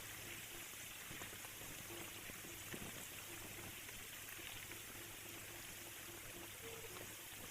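Heavy rain falling steadily, with a steady low hum under it. From about two seconds in, a run of short, evenly spaced low notes repeats several times a second for about five seconds.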